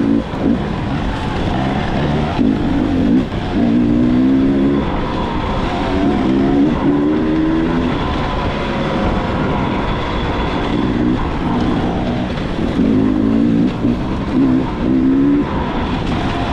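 Dirt bike engine running under riding load, its pitch rising and falling over and over as the throttle is worked, with steady wind and road noise throughout.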